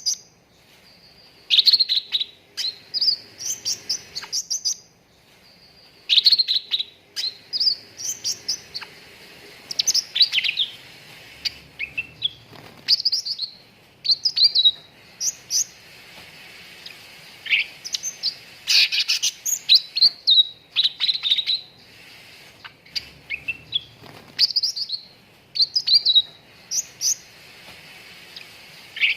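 Cucak ranting singing in repeated phrases of quick, high chirps and short sweeping whistles, each phrase a second or two long with brief pauses between, over a faint steady hiss.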